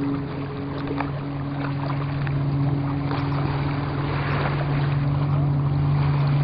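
A steady low hum over wind noise on the microphone, with a few faint clicks.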